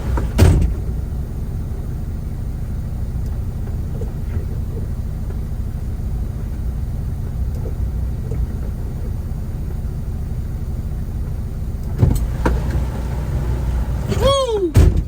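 Semi-truck's diesel engine idling with a steady low rumble, heard from inside the cab. Sharp clicks come about half a second in and again near the end, followed by a short squeak that rises and falls in pitch.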